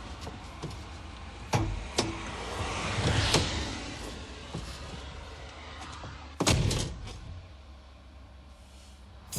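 A car door slams shut about six and a half seconds in, the loudest sound. Before it come a few lighter clicks and a vehicle passing on the road.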